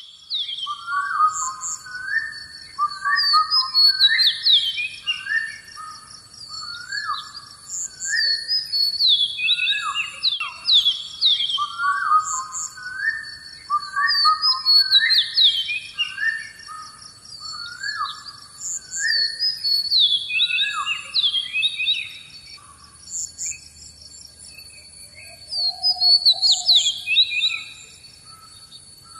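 A songbird singing repeated phrases of quick, downward-sweeping chirps, with short pauses between the phrases. A thin, steady high-pitched tone runs underneath.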